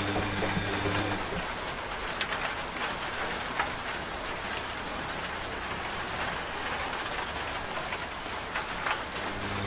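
Steady rain with scattered drops pattering on a surface. A low, steady washing-machine hum under the rain stops about a second in and comes back near the end.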